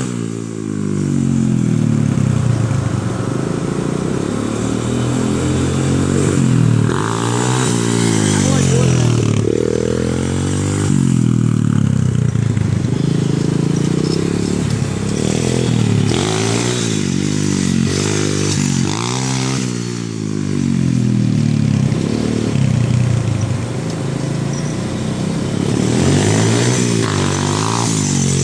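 125cc pit bike's single-cylinder engine being ridden, revving up and falling back over and over, its pitch rising and dropping every few seconds.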